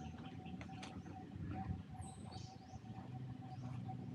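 Birds chirping faintly, a few short high calls about two to three seconds in, over a low steady background rumble.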